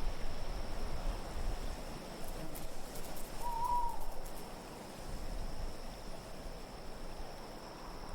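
Steady wind ambience with one short call, rising then falling, about three and a half seconds in.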